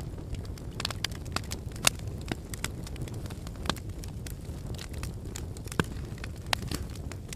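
Wood fire burning in a fireplace, with a steady low rumble of flames and irregular crackles and pops from the burning wood, a few of them sharper and louder.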